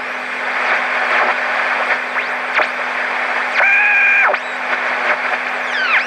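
Marconi 2004 seven-transistor AM radio's speaker hissing with static while it is tuned, with several whistles sweeping up and down in pitch. Near the middle a steady tone with overtones sounds for about half a second.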